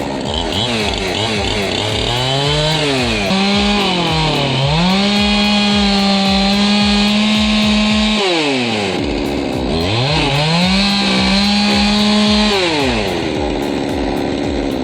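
Husqvarna 372 XP two-stroke chainsaw revving up and held at high revs, dipping briefly about four seconds in. It drops off about eight seconds in, revs up again around ten seconds and falls back near the end.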